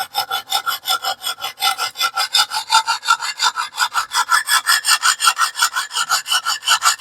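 Rapid back-and-forth strokes of a very coarse 50-grit stone on a guided TS Prof Kadet Pro sharpener, grinding the edge of a small steel cleaver: an even, gritty scraping of about six strokes a second. The coarse stone is taking metal off quickly to set the bevel.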